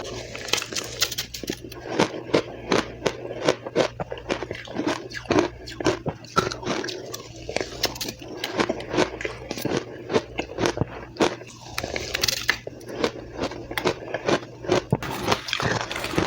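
Person biting and chewing soft, powdery crushed ice at a fast pace, close to the microphone: rapid, irregular crunches and crackles, several a second, with no pause.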